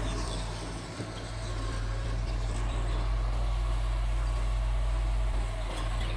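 Mitsubishi bulldozer's diesel engine running steadily with a low drone, dipping briefly about a second in.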